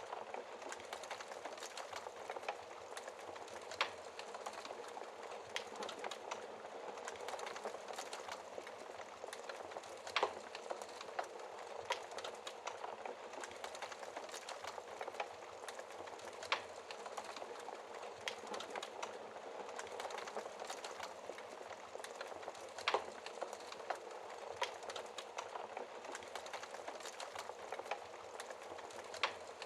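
Log fire burning in a fireplace, crackling steadily with dense small clicks and a sharper pop every few seconds.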